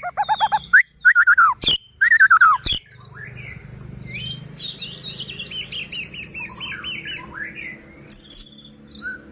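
White-rumped shama singing a fast, varied song of rising and falling whistles and quick runs of repeated notes, with two sharp clicks about a second apart in the first three seconds.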